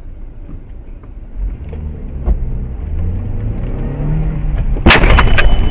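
Car engine heard from inside the car, rising in pitch as it accelerates. About five seconds in, a sudden loud burst of noise breaks in and stays loud.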